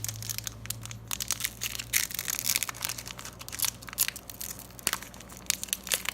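Crinkling and crackling of plastic and foil trading-card packaging, booster-pack wrapper and card sleeves, handled in the hands: a dense run of irregular crackles.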